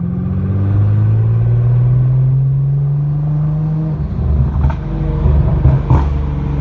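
Nissan GT-R R35's twin-turbo V6 through a 4-inch Y-pipe-back exhaust with no mufflers, heard through open windows while cruising. Its note rises slowly for about four seconds, then turns choppy and gargly as the throttle eases off, with a couple of sharp pops.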